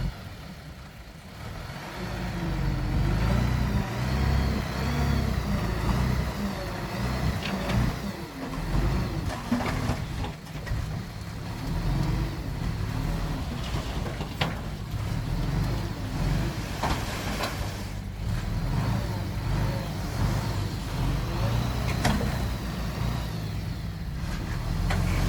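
Heavy diesel earthmoving machine engine running under load, its pitch rising and falling as it revs. It gets louder about two seconds in, and a few sharp knocks come through.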